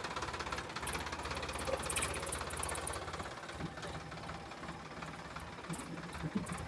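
Heavy diesel engine running steadily with a fast knocking beat, with a short spell of light metallic clatter about a second in.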